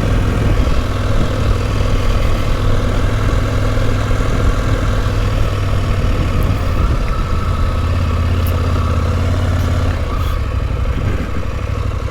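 Motorcycle engine running steadily under way, at a fairly constant speed, with a slight easing about ten seconds in.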